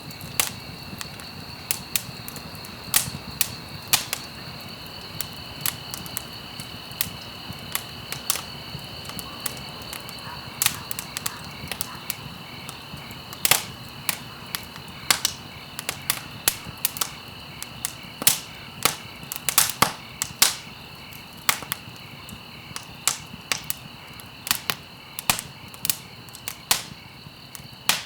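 Wood campfire crackling, with frequent sharp irregular pops and snaps over a soft steady burning hiss. A steady high insect chirring, like crickets, runs underneath.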